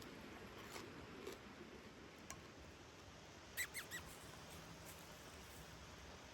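Quiet outdoor background with three quick high-pitched chirps, each sliding down in pitch, a little over halfway through.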